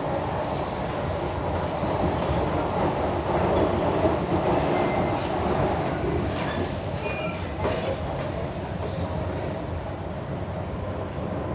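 MTR Island Line train running, heard from inside the carriage: a steady rumble of wheels and running gear on the track, loudest a few seconds in. There are a few brief, faint high wheel squeals about six to seven seconds in and again near the end.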